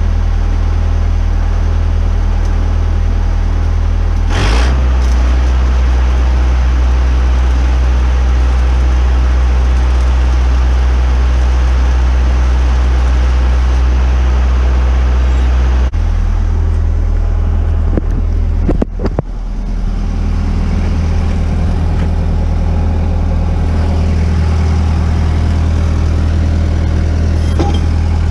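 Welding machine running with a steady engine-like hum under a constant hiss. About four seconds in its low hum steps up and grows louder, and about sixteen seconds in it drops back, the way an engine-driven welder picks up speed under arc load and then settles.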